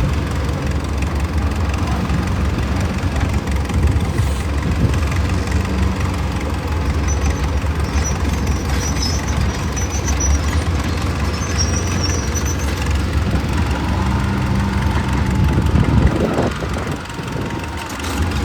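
Heavy machine's diesel engine running steadily, with faint high squeals in the middle and a brief dip in level and pitch sweep near the end.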